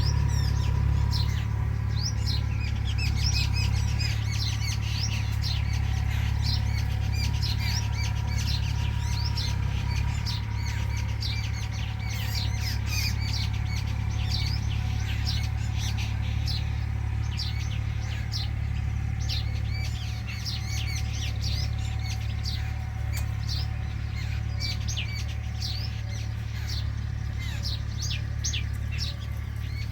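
Many small birds chirping continuously in quick, overlapping high notes, over a steady low hum.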